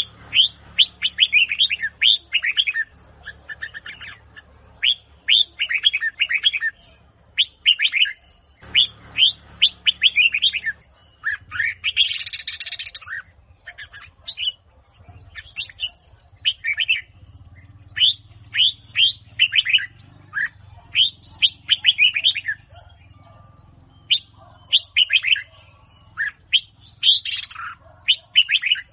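Red-whiskered bulbul of the Huế song type singing in bursts of quick, sharp whistled notes, phrase after phrase with short pauses between, with a harsher buzzy note about twelve seconds in. A faint low hum runs underneath.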